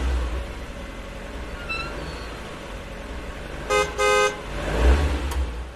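Car horn honking twice, a short toot and then a slightly longer one, over the steady low rumble of a vehicle.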